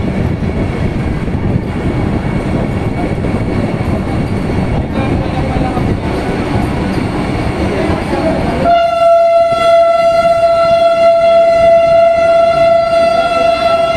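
Vande Bharat Express train running past with loud, even noise. About nine seconds in, the noise gives way to a long, steady single-pitched horn blast that holds on.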